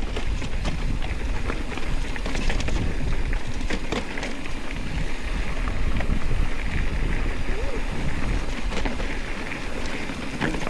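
Wind buffeting the microphone on a moving bicycle, with scattered clicks and rattles from the tyres and bike on a rough trail.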